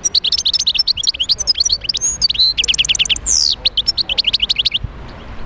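European goldfinch singing: a fast, twittering run of quick high chirps and trills, with one longer downward-sliding note about three seconds in, stopping shortly before the end.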